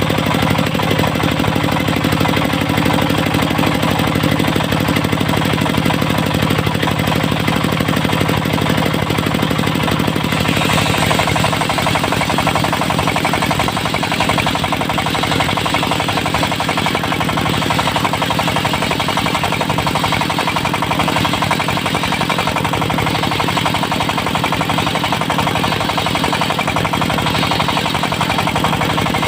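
Diesel-driven circular-saw mill running steadily, its engine knocking with a rapid rhythm. About ten seconds in a harsher, higher-pitched noise comes in over the engine and stays.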